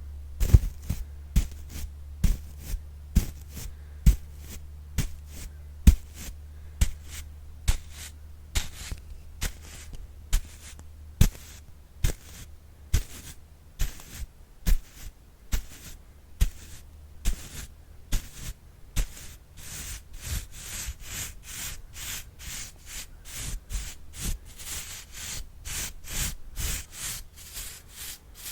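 A brush stroked over and over for ASMR, about one to two strokes a second, with sharp, snappy strokes at first and quicker, softer brushing in the second half. A low hum sits under roughly the first half.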